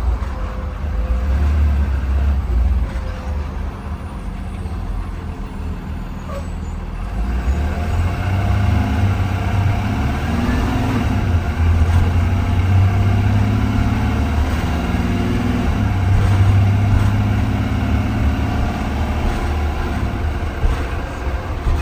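2020 Blue Bird Vision school bus engine running under way, a steady low drone heard from inside the bus, its pitch rising as it picks up speed a little over a third of the way in.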